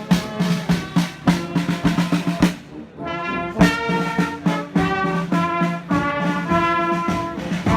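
Marching band playing brass with a steady drumbeat; the drumming breaks off briefly about three seconds in while the brass holds on, then the drum hits come back.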